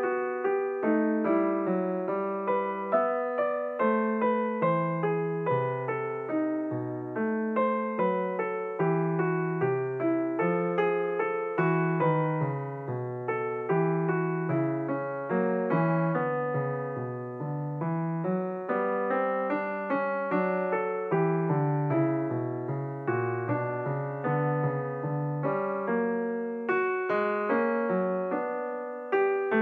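Solo piano background music: a steady stream of struck notes, each fading away, with no voice.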